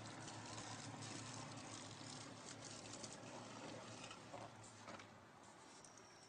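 Faint pattering and splashing of fuel poured onto a bonfire pile, tailing off about five seconds in.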